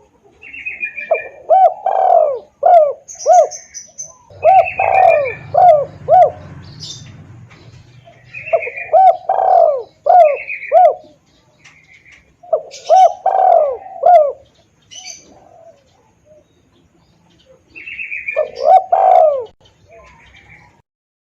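Spotted dove (tekukur) lure call: five loud phrases of rhythmic cooing notes, each a few seconds long with short pauses between. Higher chirps come with each phrase.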